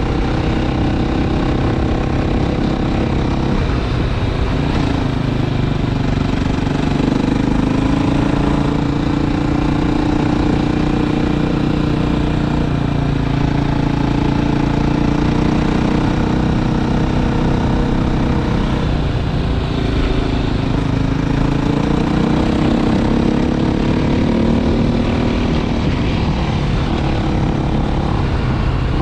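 Motorcycle engine running steadily while riding, its pitch drifting up and down with the throttle, over a constant rushing noise.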